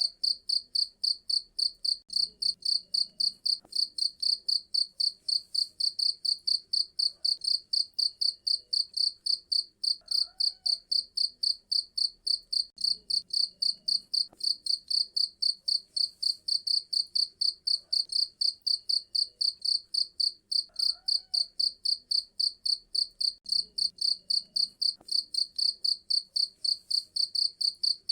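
Cricket chirping loudly and steadily in a high-pitched, even rhythm of about three chirps a second.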